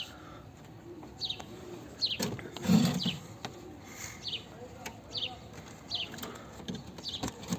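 Birds in a domestic pigeon loft: short, high, falling chirps repeating about once or twice a second, with a louder, lower pigeon sound about three seconds in.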